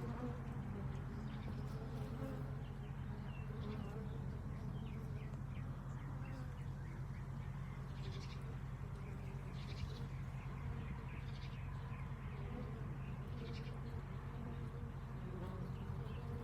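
Honeybees buzzing around their hives in a steady, unbroken hum, with birds chirping now and then over it.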